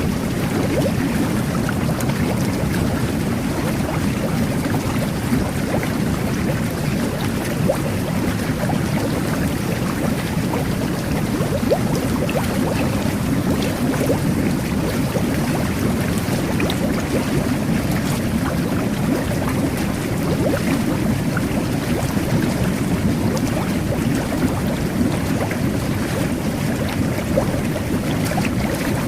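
Jet bath running: a steady churning of bubbling water from the jets, with small scattered pops of bursting bubbles.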